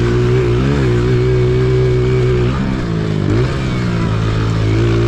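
Pit bike engine running at a steady speed while riding, the throttle eased off about halfway through so the pitch falls, then opened again so it climbs back.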